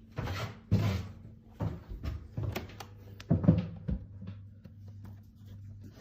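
A series of sharp knocks and thuds, about six of them in the first four seconds, followed by a low steady hum.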